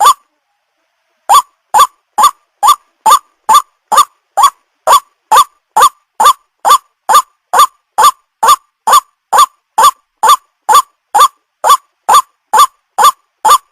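White-breasted waterhen calling: one short harsh note, repeated over and over about twice a second, each note the same. The calls stop for about a second just after the start, then resume.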